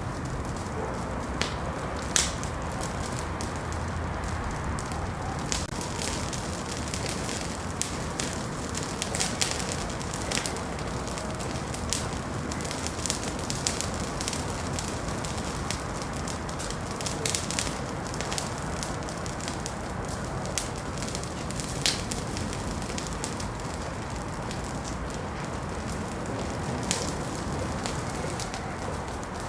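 Wood fire burning in a fireplace: a steady hiss with irregular sharp crackles and pops scattered throughout.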